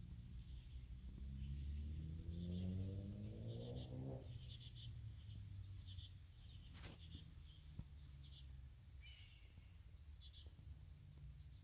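Small birds chirping in short, high, falling notes, over a low steady rumble. A droning tone rises in pitch for a couple of seconds and stops abruptly about four seconds in, and there is a single sharp click a few seconds later.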